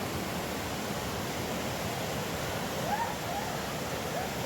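Steady rushing of river water pouring over a small waterfall, with a few faint short calls about three seconds in.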